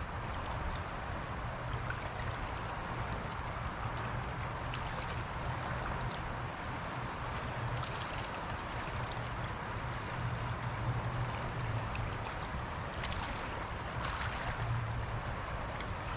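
Steady rushing of a fast-flowing river running high, with scattered faint ticks over it.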